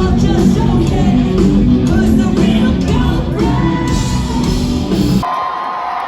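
Live post-hardcore rock band playing loud with distorted guitars, drums and vocals, stopping abruptly about five seconds in. The crowd cheers and a held high note rings on.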